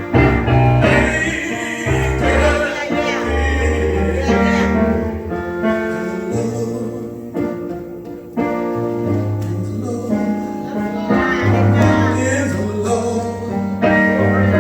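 Gospel music: a live song with singing over keyboard and bass accompaniment.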